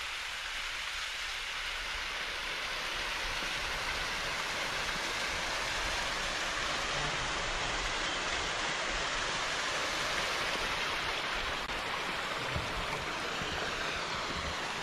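Heavy rain and wind make a steady, even rushing hiss, with an irregular low rumble underneath.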